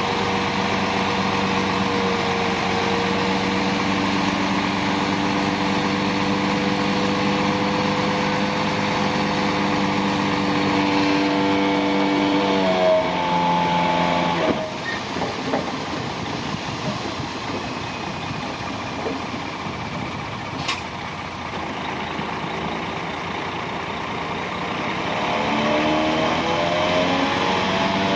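Heavy earthmoving machine's diesel engine running steadily, rising in pitch about twelve seconds in and then dropping back to a lower rumble; one sharp click about twenty seconds in, and the engine rises again near the end.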